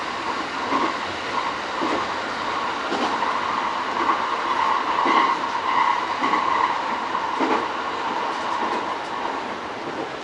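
JR East E231-series commuter train running on the line, heard from the front car, with a steady running noise. Rail-joint clickety-clack comes about once a second.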